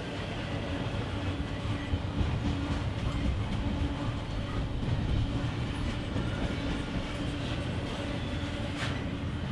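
Freight train cars rolling past with a steady rumble of steel wheels on rail and a few faint clicks.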